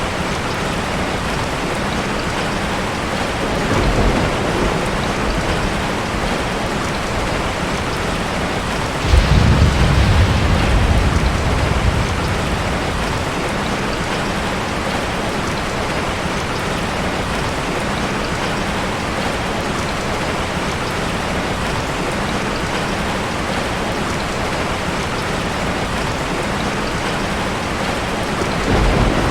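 Heavy, steady rain with low rolls of thunder: a short rumble about four seconds in, a louder one lasting about three seconds near the middle, and another near the end.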